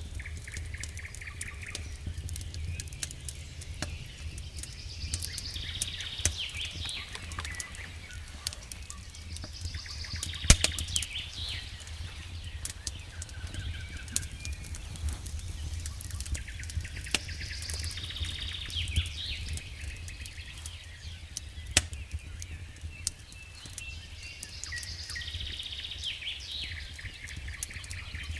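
Campfire crackling, with scattered sharp pops, over a low steady rumble; a songbird sings a short repeated phrase every six or seven seconds.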